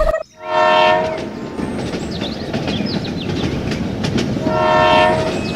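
Train horn blowing twice, each blast about a second long, over the steady rumble of a train rolling along the track.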